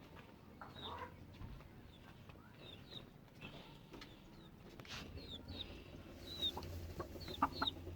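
Chicks peeping in short, high, downward-sliding chirps that come more often in the second half, with a few short low clucks from hens near the end.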